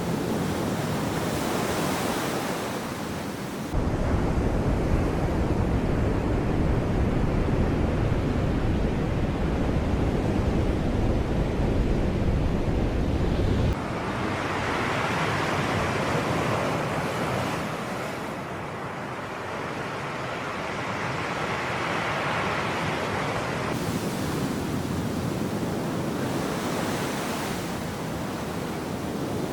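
Sea waves breaking and washing on the shore, the surf swelling and ebbing. A heavy low rumble of wind on the microphone cuts in suddenly about four seconds in and stops just as suddenly about ten seconds later.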